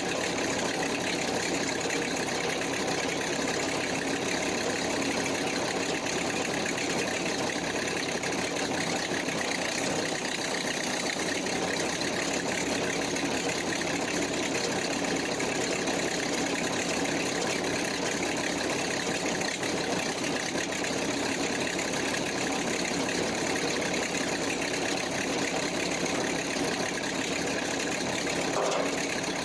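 An engine idling steadily and unchanging.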